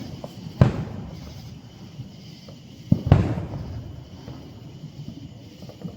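Aerial fireworks shells bursting with loud booms: one about half a second in, then a smaller crack and a big boom together around three seconds in, each trailing off in a long echo.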